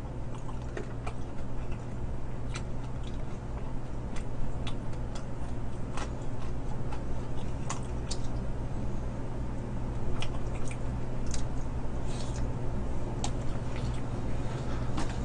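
Someone eating sauced fried chicken drumsticks: irregular small wet clicks and crunches of chewing and lip smacks, about one a second, over a steady low hum.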